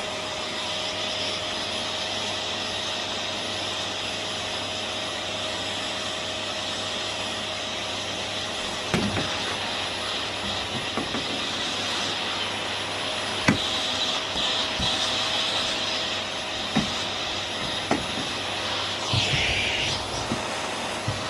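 Vax Air Steerable Max upright vacuum cleaner running steadily with a constant whine, working along the edges of the floor. A few sharp knocks from about halfway on.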